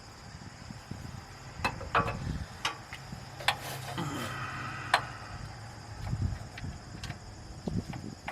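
Hand ratchet and socket clicking and clinking irregularly in short strokes as a bolt is worked from under a truck.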